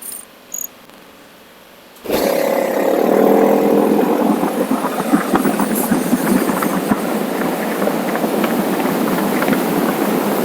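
Motorcycle engine running with rushing wind noise, starting suddenly about two seconds in after a quiet stretch with a short click and a brief high beep.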